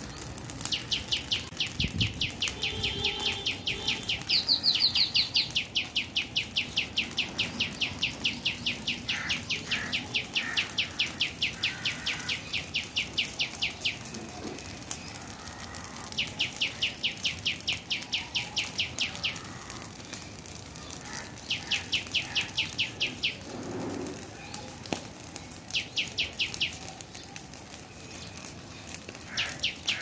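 A bird calling in a rapid, even series of high, sharp chirps, about five a second, in long runs broken by pauses.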